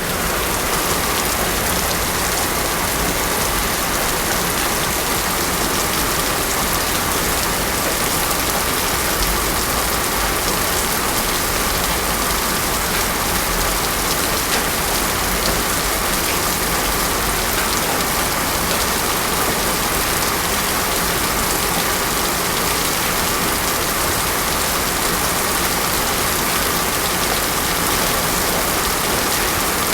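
Heavy rain falling steadily on a road, a continuous even hiss with no thunder.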